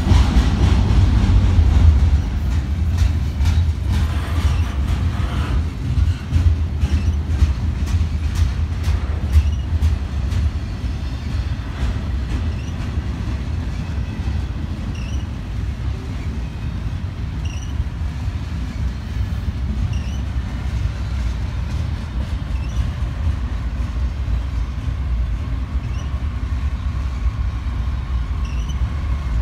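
A train rolling past on the rails. A heavy low rumble carries sharp wheel clicks over the rail joints for about the first ten seconds, then settles into a steadier rumble.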